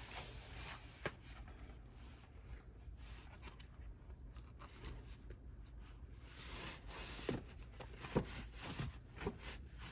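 Plastic DVD cases being handled and shuffled on a shelf: soft rubbing with a few light clicks, one about a second in and three more near the end.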